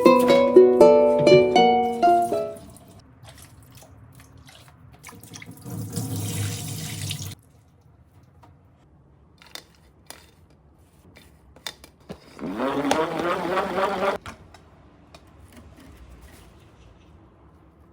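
Ukulele background music ends in the first couple of seconds. Then water runs from a tap twice, each time for about two seconds. The second time the pitch rises, as a container fills.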